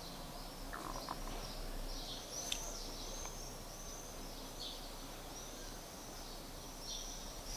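Faint bird chirping: short high chirps repeated about once or twice a second, over quiet room tone.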